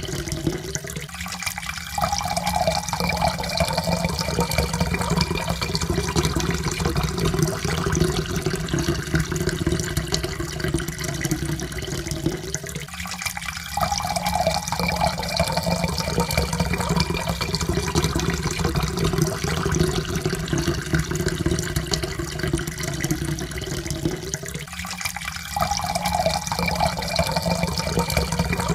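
Water poured in a steady stream into a cup. The pitch slowly rises as the cup fills, and the pour breaks off briefly and starts again three times, about every twelve seconds.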